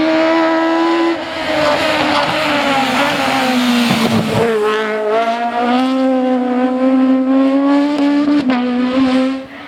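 Citroën Xsara rally car engine at high revs, its pitch dropping and climbing again as it shifts gear and accelerates, with tyre noise underneath. The sound falls away sharply near the end.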